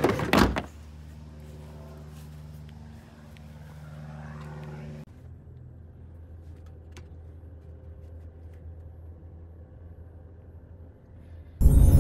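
Car engine idling, a steady low hum heard from inside the cabin, with a loud knock in the first second. Music starts just before the end.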